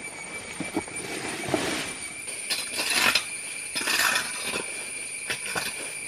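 Dry fallen leaves rustling and scraping in a series of swishes, strongest about three and four seconds in, as leaf litter is cleared from stone steps.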